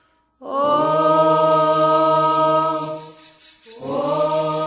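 Voices chanting a devotional Afro-Brazilian song to Xangô. Two long held notes each slide up into pitch, the second starting a little over three and a half seconds in, with a fast, faint rasping shake behind them.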